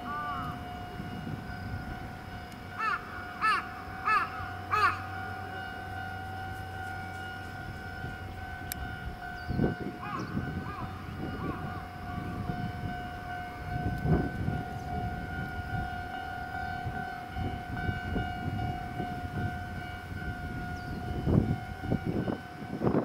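A bird calling, four short arched calls about three to five seconds in and a few fainter ones later, over a steady high tone and occasional low rumbles.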